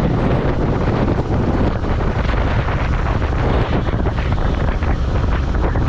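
Wind buffeting a rider's microphone on a moving motorcycle, a loud, steady rush with the bike's running drowned underneath it.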